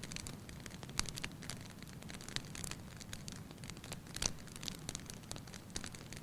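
Fireplace fire crackling: irregular sharp pops and snaps over a soft, steady low hiss, with stronger pops about a second in and just after four seconds.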